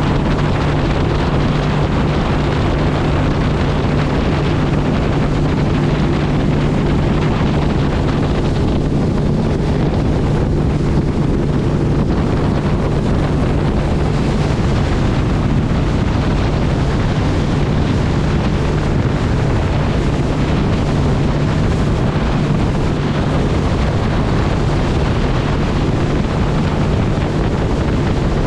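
Steady drone of a vehicle driving at speed, a constant low engine and road hum with wind noise over it.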